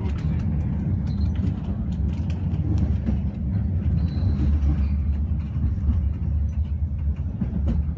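Passenger train moving, heard from inside the carriage: a steady low rumble with faint clicks and rattles throughout.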